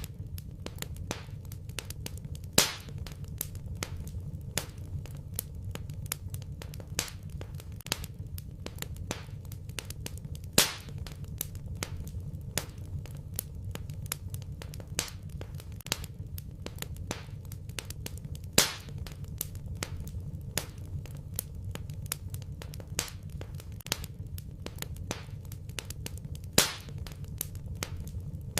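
Wood fire in a fireplace crackling, with a dense run of small snaps over a low steady rumble. A louder pop comes about every eight seconds, four times.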